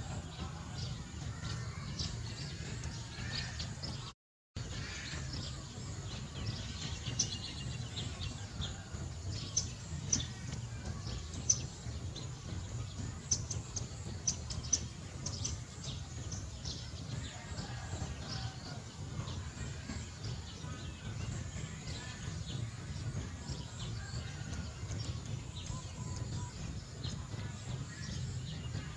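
Outdoor ambience: small birds chirping in short, high chirps, busiest in the middle, over a steady low rumble. The sound cuts out completely for a moment about four seconds in.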